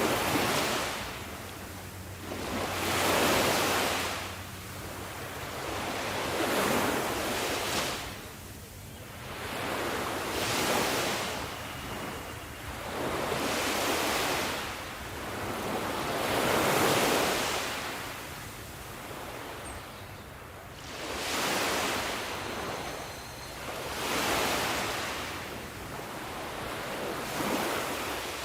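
Sea waves breaking on a shore, each one rising to a rushing hiss and then drawing back, about every three to four seconds.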